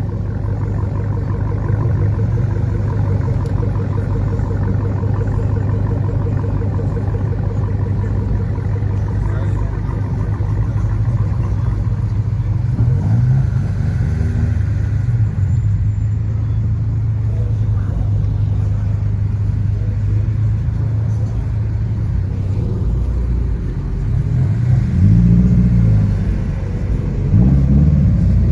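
Car engine running with a steady low rumble, then several revs rising and falling near the end.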